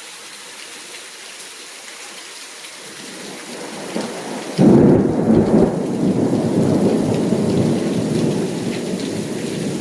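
Steady heavy rain, then about four and a half seconds in a sudden loud thunderclap that rolls on as a long rumble, slowly easing off.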